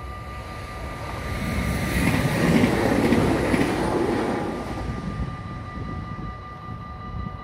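A Stadler FLIRT electric multiple unit passes over a level crossing. Its rumble and wheel clatter swell to a peak about two to three seconds in, then fade away by about six seconds. Throughout, the crossing's warning bells ring as a steady, unchanging ringing.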